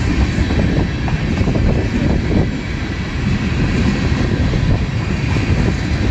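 Freight cars of a long mixed train (tank cars and centerbeam flatcars) rolling past close by: a steady, loud rumble of steel wheels on the rails with scattered clacks.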